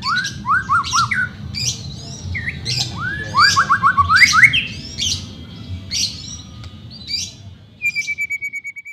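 White-rumped shama singing: a run of quick rising whistled notes and sharp high chirps, ending near the end in a fast, even trill held on one pitch.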